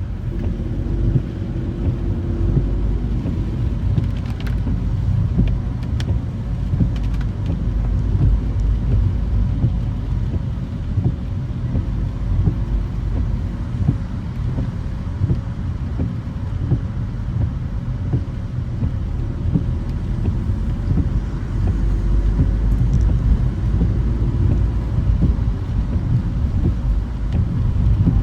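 Car driving along city streets: a steady low rumble of engine and tyres, with a few faint clicks a few seconds in.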